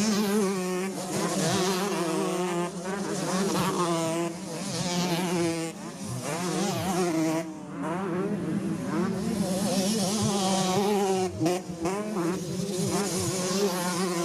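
Several dirt bike engines revving, their pitch rising and falling over and over over a steady low drone.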